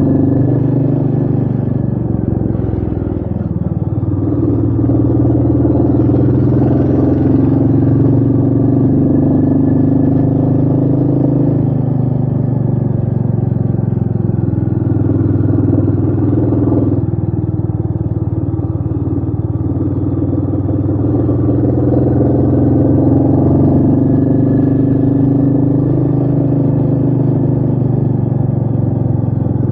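Royal Enfield Meteor 350's single-cylinder engine running under way, its note falling and rising with the throttle: it drops about three seconds in and again past the middle, then climbs back. Wind noise runs under the engine.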